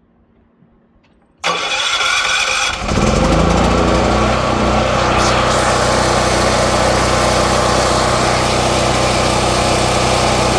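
Portable gasoline generator engine cranking for about a second, then catching and settling into steady running. It is being started to run dry with the fuel shut off, to keep junk out of the carburettor.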